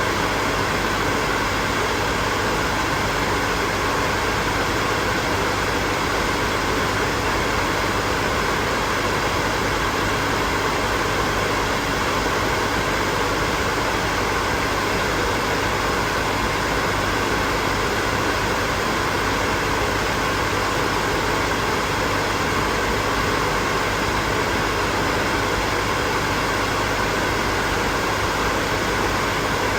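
Hair dryer running continuously: a steady blowing hum from its fan and motor, with no change in pitch or loudness.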